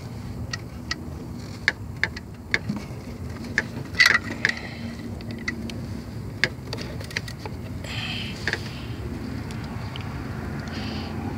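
Scattered metallic clicks and clinks of a 3/8-drive ratchet and 15 mm socket being worked on the belt tensioner in an engine bay, with the loudest clank about four seconds in.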